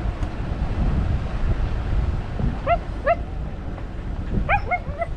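Wind rumbling on the microphone, then a dog barking: two yips about two and a half seconds in, then a quick run of yips near the end.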